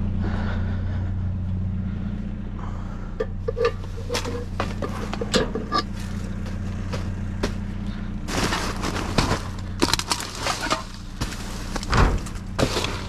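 A vehicle engine idling steadily, with knocks, clatter and rustling of objects being handled and moved about, starting about three seconds in and busiest past the middle.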